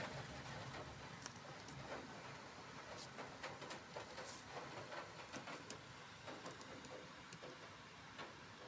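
Rain falling steadily, with scattered drops ticking sharply on nearby surfaces.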